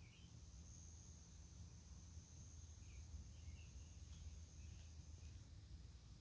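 Faint night ambience: an insect sings one steady high-pitched trill lasting about five seconds. A few faint bird chirps and a low background rumble sit beneath it.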